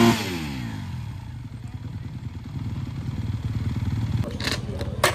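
Dirt bike engine whose revs fall away quickly to idle at the start, then idling with a fast, even throb. A few sharp clicks sound near the end.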